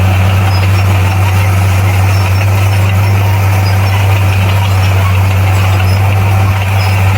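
Bulldozer's diesel engine running steadily, a deep, even drone with no changes in pitch or breaks.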